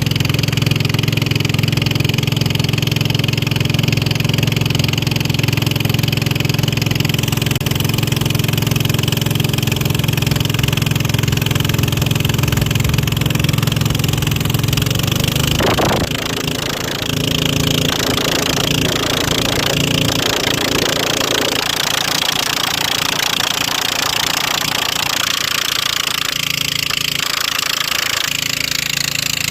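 Racing boat engine running steadily; about halfway through its note shifts suddenly and it carries on at a different pitch.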